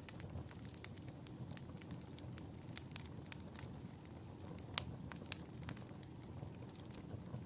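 Wood fire burning in a fireplace, a steady low rumble with irregular sharp crackles and pops, the loudest pop a little before five seconds in.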